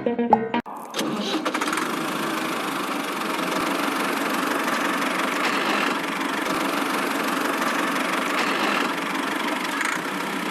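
A small motor running steadily, a mechanical hum and rattle that starts about half a second in as music cuts off.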